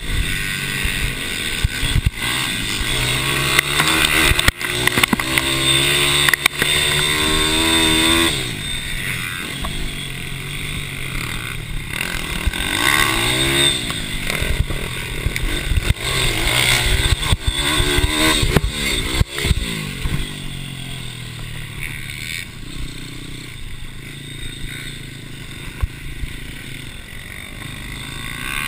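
Racing mini bike engines revving up and down as the bikes accelerate and brake around the track, with repeated rising pitch as they pass. The engine sound eases off after about twenty seconds.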